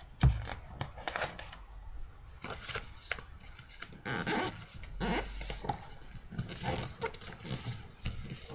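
Sheet of printer paper being folded in half and creased by hand: irregular rustling and scraping, with a thump just after the start.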